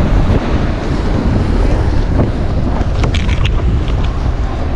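Wind buffeting the microphone over ocean surf washing against a rocky shoreline, a steady loud rumble, with a few light clicks about three seconds in.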